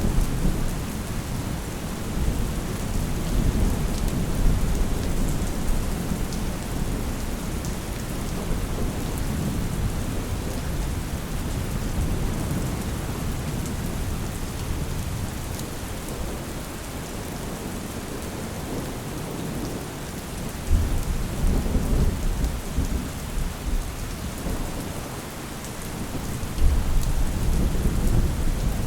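Steady rain falling, with low rolls of thunder rumbling underneath that swell twice, about three quarters of the way through and again near the end.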